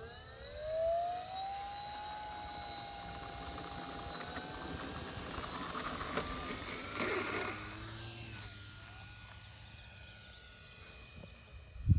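RC Cessna 182 model's electric motor and propeller throttling up with a rising whine on the takeoff run, then holding a steady pitch and fading as the plane climbs away. A short sharp knock near the end.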